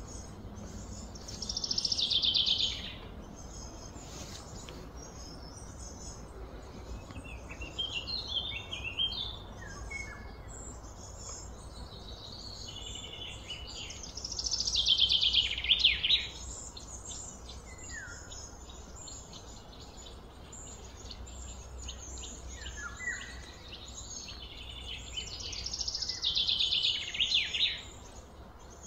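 A bird singing the same phrase three times, each a quick trill that slides down in pitch over about a second, with scattered shorter chirps between and a steady low rumble underneath.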